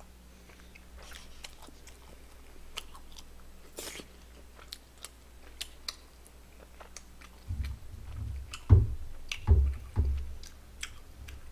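A person chewing soft rice cakes (tteokbokki) close to the microphone: faint wet mouth clicks at first, getting louder and more irregular from about seven and a half seconds in.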